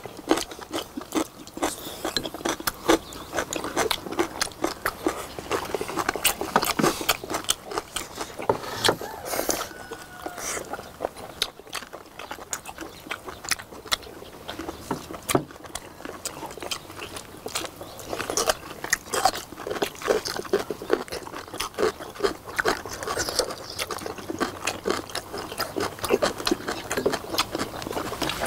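Several people chewing and eating braised beef short ribs and side dishes close to the microphone: a steady run of wet mouth smacks and small sharp clicks.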